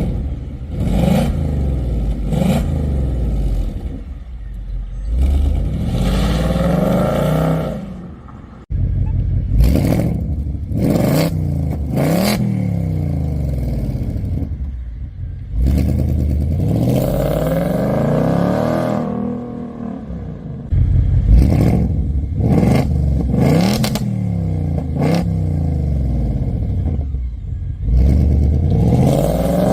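2024 Ford Mustang GT's 5.0-litre V8 being revved through its active-valve exhaust, run through its exhaust modes. There are several short blips and longer revs that rise and fall back to idle, with a brief break about a third of the way in.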